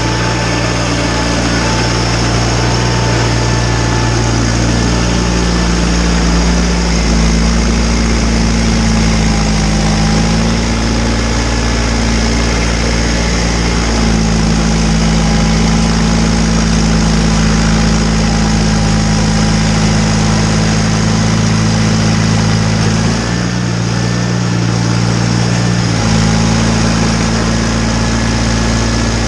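John Deere 318 garden tractor's two-cylinder Onan engine running steadily while driving a Model 49 snowblower. Its pitch shifts slightly down and back up a few times, and a faint steady whine sits above it.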